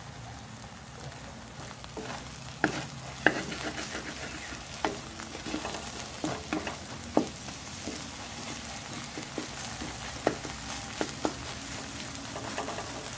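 Eggs frying and sizzling in a wok while a wooden spatula stirs and scrapes them. From about two seconds in come sharp knocks of the spatula against the pan.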